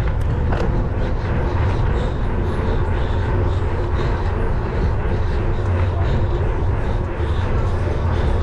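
Steady low wind rumble on the microphone over rattling tyre and trail noise from a mountain bike being ridden, with a few faint clicks.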